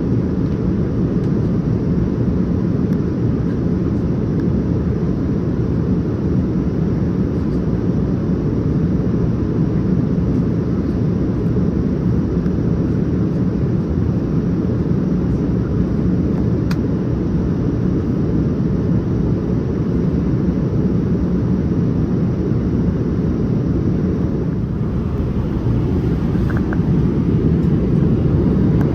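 Steady rumble of a Boeing 787-9 airliner's engines and airflow heard inside the passenger cabin, with a faint steady hum running under it.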